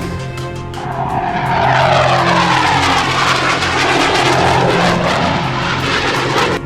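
Fighter jet passing by, a loud engine roar whose pitch falls steadily from about a second in as it goes past, over background music.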